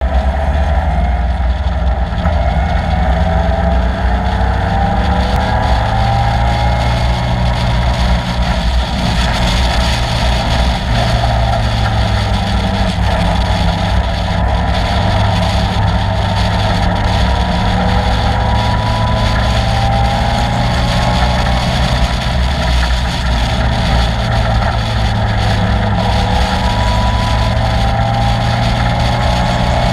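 Caterham Seven's 2.3-litre Ford Duratec four-cylinder engine running loud and continuously at a fairly steady engine speed, its note rising and falling gently without sharp revving.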